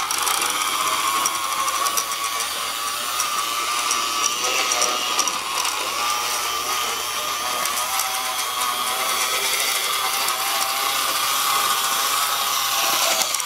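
HO scale model locomotive (US Army 4825) running along the track, its electric motor and gears making a quite loud, steady whine with rapid clicking and rattling.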